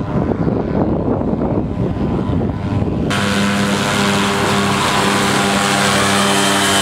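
Paramotor engine and propeller: a rough low rumble with wind buffeting at first, then about three seconds in it jumps abruptly to a steady, loud full-throttle drone.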